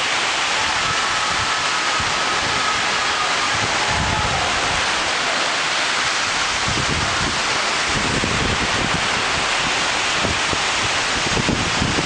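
Heavy rain pouring down in a steady dense hiss, with gusts of strong wind hitting the microphone as low irregular rumbles that come more often in the second half.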